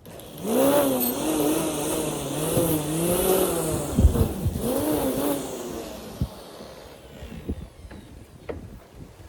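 Small petrol engine of a grass cutter revving, its pitch rising and falling for about five seconds, then dropping away, followed by a few light knocks.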